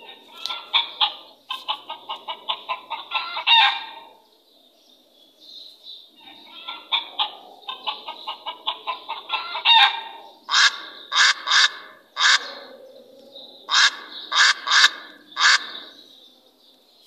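Chicken clucking in two runs of quick, rapid clucks, followed by louder separate squawking calls in two groups, four and then five.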